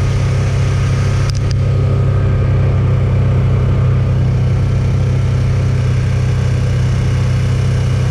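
A vehicle engine running steadily, with a brief click about a second in.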